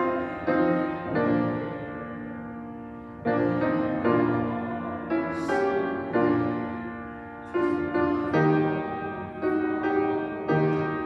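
Piano playing slow chords, each struck firmly and left to ring and fade before the next.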